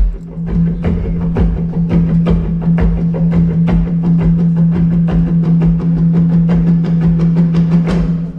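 Live tap-and-percussion show music: a fast, even run of sharp strikes, about four to five a second, over a held low note. It stops abruptly near the end, as the number finishes.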